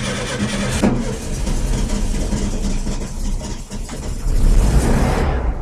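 Car engine running, with a sharp click about a second in and a louder stretch of rumble about four seconds in, then cutting off abruptly.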